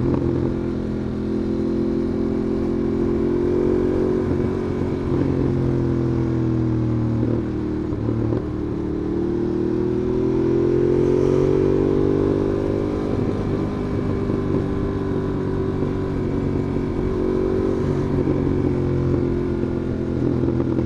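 Ducati Monster 821's L-twin engine running at low, steady revs on the move, its pitch rising gently about ten seconds in and easing back down a few seconds later.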